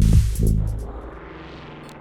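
Electronic beat played on a Maschine: a heavy kick drum and bass pulse about twice a second stop about half a second in. A rising noise sweep follows over a lingering synth tone and cuts off just before the end.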